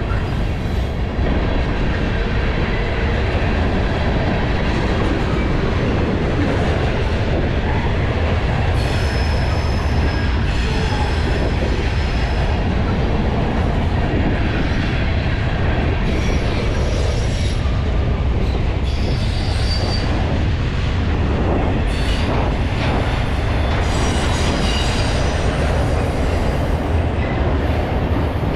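Freight train cars rolling past with a steady rumble of wheels on rail. High-pitched wheel squeal comes and goes several times.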